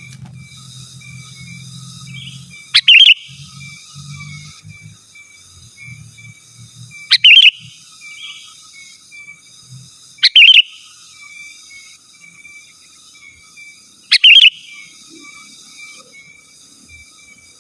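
Sooty-headed bulbul (kutilang) calling: four loud, short bubbly calls spaced three to four seconds apart, over a faint, steady background of rapid high chirping.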